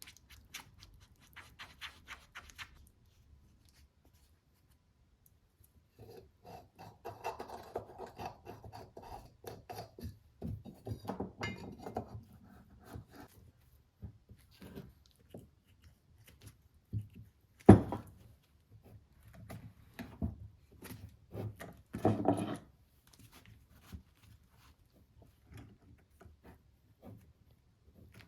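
Intermittent rubbing and scraping of hand work, with scattered clicks and one sharp knock about 18 seconds in.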